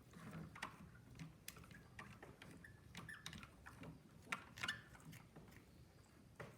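Faint, irregular scrapes and small clicks of a spoon spreading and scraping peanut butter onto a pine cone.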